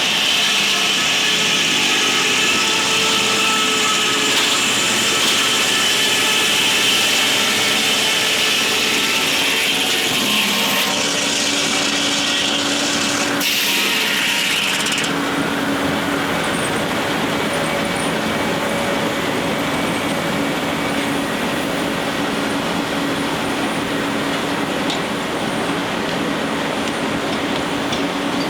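Sawmill at work: a circular saw cutting through a log with a high steady whine over the running machinery. The whine stops about halfway through, and the mill keeps running.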